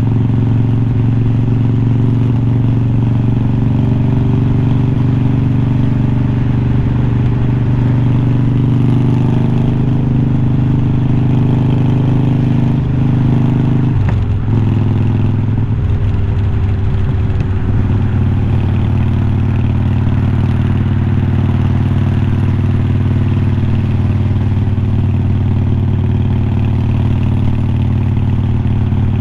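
2020 Harley-Davidson Iron 1200's air-cooled V-twin running through unbranded glass-pack-style slip-on mufflers while riding along. The engine note breaks off about halfway through and picks up again at a different pitch, then holds steady.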